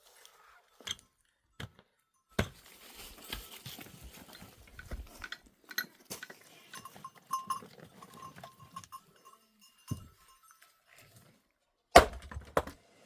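Livestock moving about: bell clinks and scattered knocks, with a few short ringing notes, and one sharp knock near the end.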